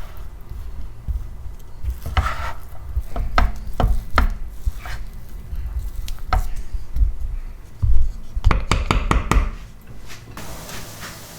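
Irregular knocks and scraping of household objects being handled, with a quick run of clicks about nine seconds in.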